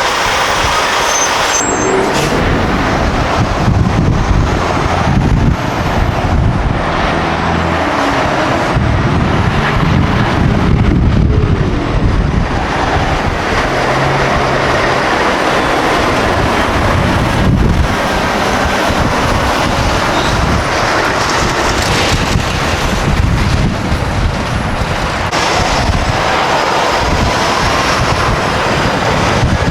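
Semi trucks driving past, with continuous diesel engine rumble and tyre noise throughout.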